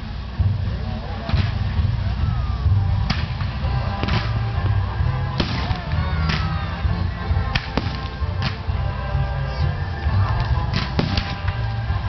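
Aerial fireworks bursting, about nine sharp bangs at irregular intervals, over music with a heavy bass and the voices of a crowd.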